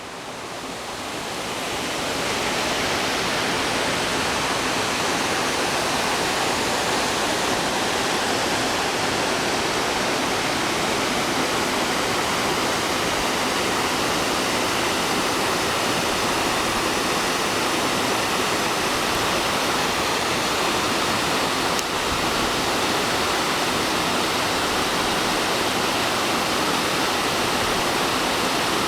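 Waterfall: water pouring and splashing in a constant rushing noise, growing louder over the first couple of seconds and then holding steady.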